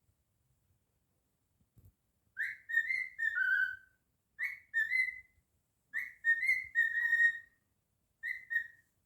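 Pet cockatiel whistling a tune in four short phrases of clear notes, the first ending on a lower, falling note. The first two seconds are quiet before the whistling starts.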